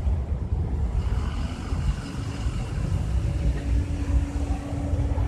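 Car engines idling in a line of stopped traffic, a steady low rumble, with a steady hum coming in about two seconds in.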